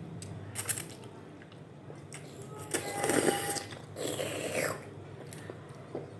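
Close-miked eating sounds: a person biting and chewing noodles and meatballs, in a few short noisy bursts, the loudest about three seconds in.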